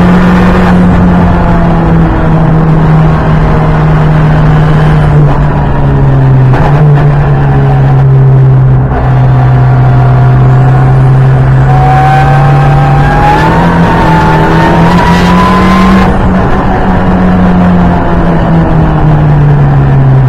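Ford Fiesta EcoBoost track car's engine heard from inside the cabin, running hard under load, its pitch stepping down at a few gear changes. A thin whine rises partway through, over steady road and tyre noise.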